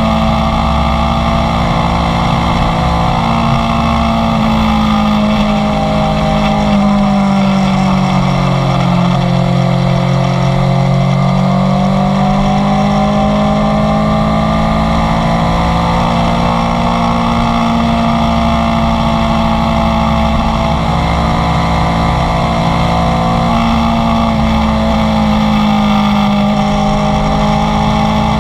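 Inline-four sport motorcycle engine running at steady cruising revs while riding. The pitch eases down about eight seconds in and climbs back a few seconds later.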